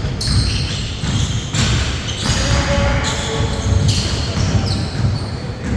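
Basketball bouncing on a court during a game.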